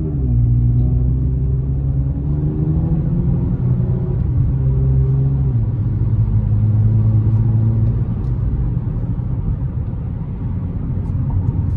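Eighth-generation Toyota Camry's engine and exhaust heard from inside the cabin while accelerating: a low, steady drone whose pitch climbs and then drops back a few times as the automatic transmission upshifts.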